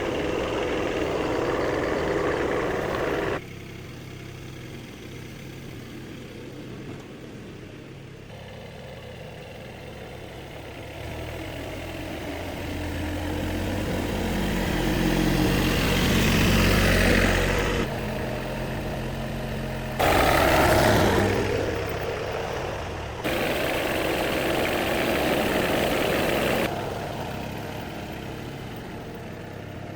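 A vehicle engine running, heard across several short edited clips that change abruptly every few seconds; the level climbs for a few seconds around the middle, as if the engine is revved.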